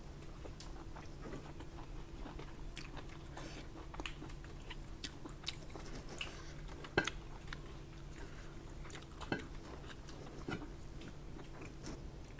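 Close-miked chewing and mouth sounds of a person eating rice and curry with her fingers: scattered wet smacks and clicks, the loudest about seven seconds in. A low steady hum runs underneath.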